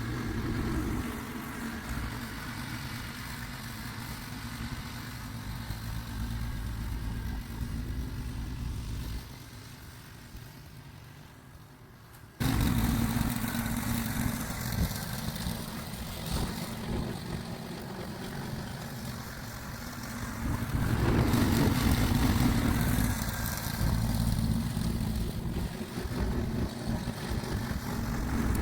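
Snowblower engine running steadily while clearing snow. It fades about nine seconds in, then comes back suddenly and louder about twelve seconds in.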